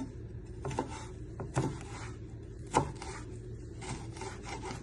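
Kitchen knife chopping ginger on a chopping board: a few sharp knocks of the blade on the board about a second apart, the loudest near the middle.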